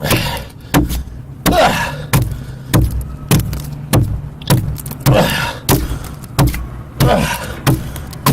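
Regular chopping strikes into wood, about one every 0.6 seconds, each with a short ringing tail, over a steady low hum.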